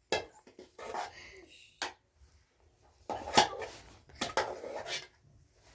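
Pots, dishes and utensils being handled: a few sharp knocks and short clattering bursts.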